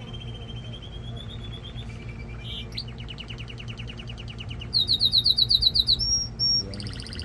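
Male domestic canary singing a series of rapid trills, with the loudest, fastest trill about five seconds in, followed by two short whistled notes and another trill near the end.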